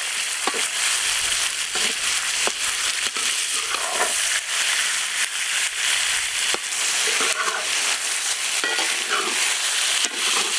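Food frying in hot oil with a steady sizzle, stirred with a utensil that scrapes the pan now and then.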